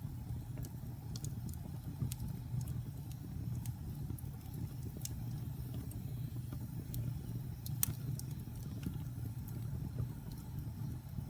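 Wood fire burning in a fireplace: irregular sharp crackles and pops, a few each second with one louder pop near the end, over a steady low rumble.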